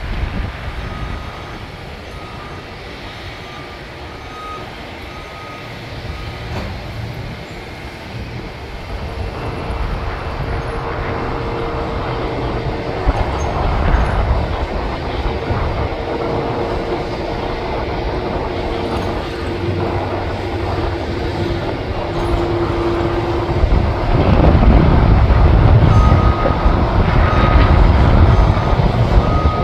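A vehicle's reversing beeper pulsing about once a second over the steady whine and rumble of running engines; the rumble grows louder near the end as the beeping returns.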